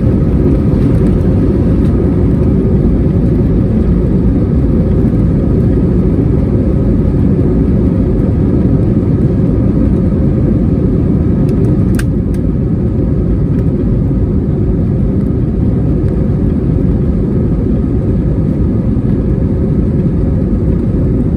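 Airbus A321-200 airliner on takeoff, heard from inside the cabin: a loud, steady deep rumble of the jet engines at takeoff thrust and the airframe, with one sharp click about twelve seconds in.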